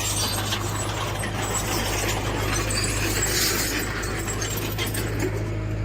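Heavy earthmoving machinery at work: a diesel engine runs steadily under a continuous clatter of rock, soil and metal.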